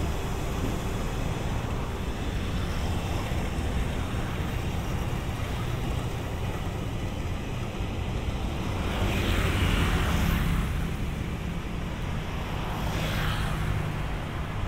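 Diesel-hauled oil tank train running by: a steady low rumble with a hiss over it, swelling for a moment about two-thirds of the way through and again near the end.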